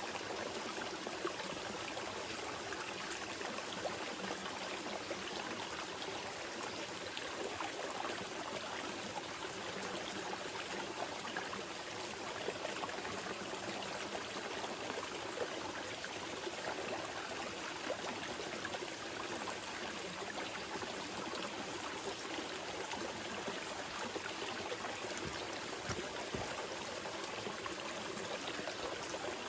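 Small mountain river flowing gently: a steady, even rush and trickle of water.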